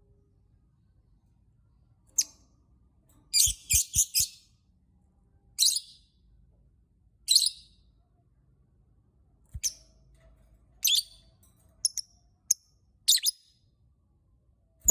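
Lovebird giving short, sharp, high chirps, some single and some in quick runs of three or four, with pauses of a second or two between them.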